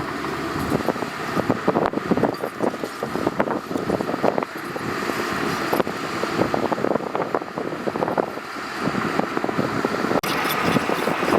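Heavy diesel earthmoving machinery working loose gravel: a steady engine sound under dense crunching, crackling and knocking. The sound changes abruptly near the end.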